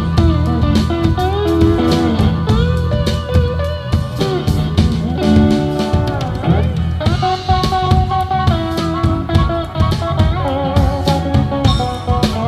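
Live blues band playing an instrumental break between verses: a lead line with bending notes over bass and a drum kit keeping a steady beat.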